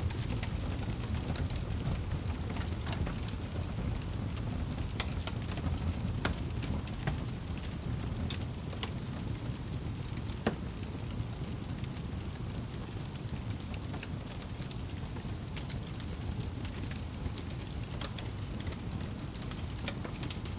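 Wood fire crackling in a fireplace: scattered sharp pops and snaps over a steady low rumble, with one louder pop about ten seconds in.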